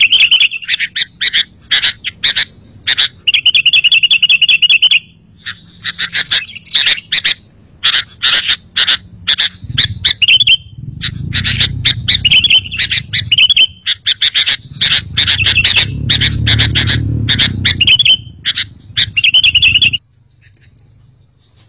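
Sooty-headed bulbul calling rapidly: busy runs of short bright chirps and warbled trills that cut off abruptly near the end. A low rumble rises under the calls twice in the middle.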